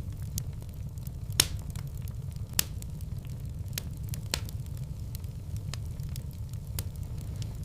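Wood fire burning in a fireplace: a steady low rumble with irregular sharp crackles and pops, two of them louder about one and a half and two and a half seconds in.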